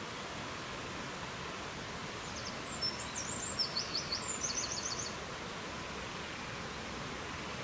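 A small songbird sings one short, high phrase of quick chirps ending in a fast trill, from about two to five seconds in, over a steady rushing hiss.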